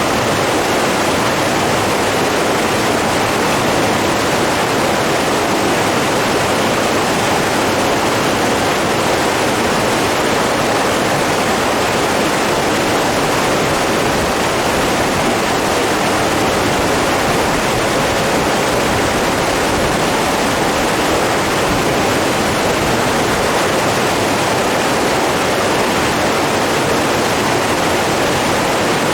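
Running water rushing steadily and evenly, like a stream or small waterfall close by, with no other sound breaking through.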